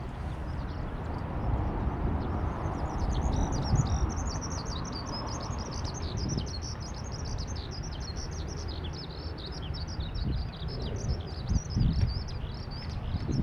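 Many small birds chirping rapidly and continuously, starting a couple of seconds in, over a steady low rumble.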